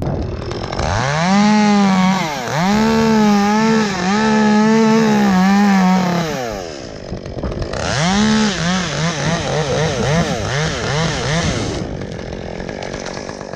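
Chainsaw revved to full throttle and cutting into an elm limb for about five seconds, then falling back to idle. It revs up again near the middle, with the engine speed bouncing quickly up and down for a few seconds before settling back to idle.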